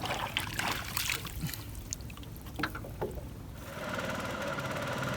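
Water trickling and splashing, with small scattered knocks, as a fishing net and line are hauled out of the water by hand. About three and a half seconds in, background music with low held notes comes in.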